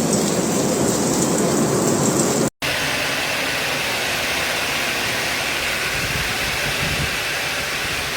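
Steady dense hiss of a heavy storm downpour, broken by a sudden cut about two and a half seconds in, after which a similar downpour sound carries on.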